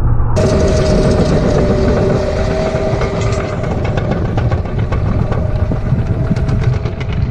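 A vehicle's engine running loudly, with a steady whine over a rough rumble and a rapid clattering rattle through the middle of the clip.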